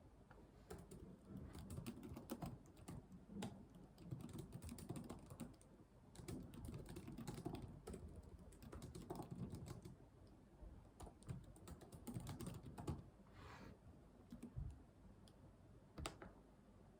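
Computer keyboard typing, quick runs of keystrokes with short pauses between them, then a single sharper click near the end.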